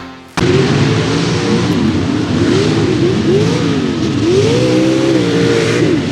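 Mega mud truck's big engine revving hard, its pitch rising and falling over and over as the throttle is worked, cutting in sharply just after the start.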